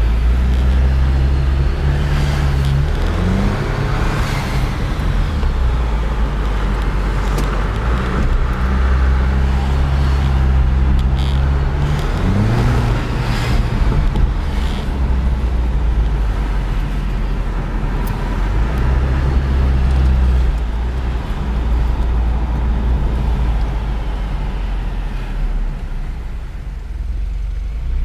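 A Jeep Wrangler's 2.0-litre turbo four-cylinder engine and exhaust, heard while driving. It holds a steady low drone, and the pitch rises briefly about 3 seconds in and again about 12 seconds in. Road noise runs underneath.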